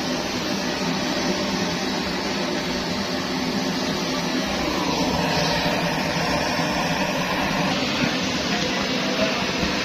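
Pressurized kerosene (primus) stove burner running with a steady, even rushing noise.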